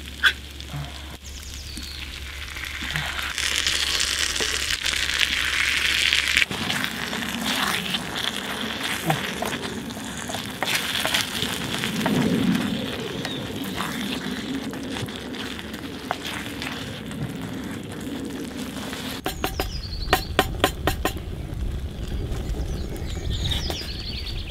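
Beans from a can going into a hot cast-iron pan on a wood-fired hobo stove and sizzling as they fry, with stirring. A quick run of sharp clicks comes about three-quarters of the way through.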